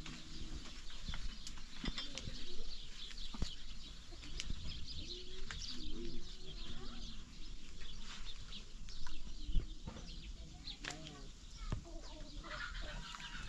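Birds chirping, many short high chirps, over scattered knocks and clatter.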